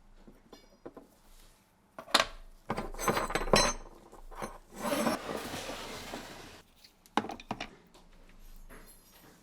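Small steel parts of a Nagant revolver clinking and knocking as they are handled, with a short metallic ring about three seconds in. A scraping or rubbing stretch follows from about five to six and a half seconds.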